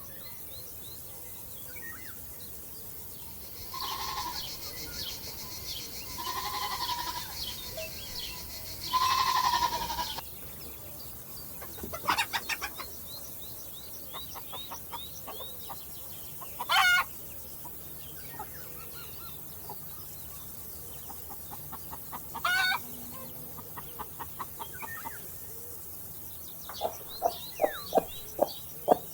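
Chickens calling and clucking: three drawn-out calls in the first part, then short clucks and a quickening run of clucks near the end, with small birds chirping faintly in the background.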